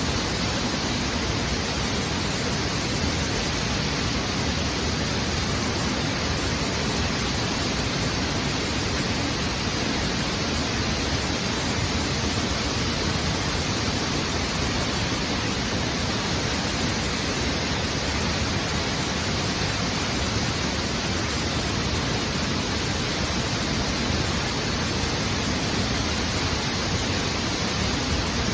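A waterfall's steady rush of falling water, loud and unchanging.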